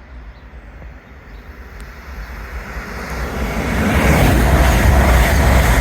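A train approaching through the station, its rumble growing steadily louder until it is passing close by about four seconds in.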